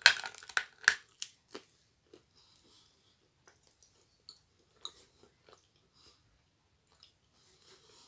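A bite into a hard white chalky lump, with loud crunches in about the first second. Then quiet chewing with scattered small clicks as it melts into a thick, smooth paste.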